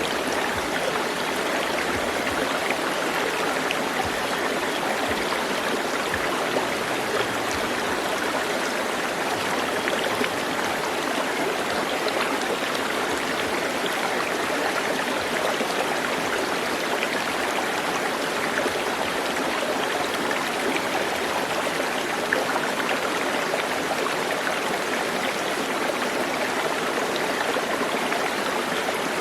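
Water running in a stream: a steady, even rush with no break.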